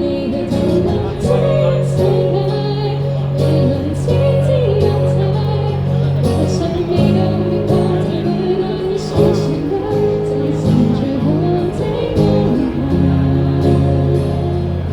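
A live band playing a song, with guitar and held low bass notes under a sung melody.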